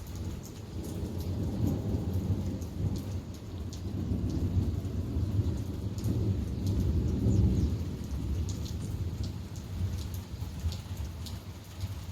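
Long rolling thunder rumble that builds over several seconds, peaks about seven seconds in and slowly dies away, with raindrops ticking close by.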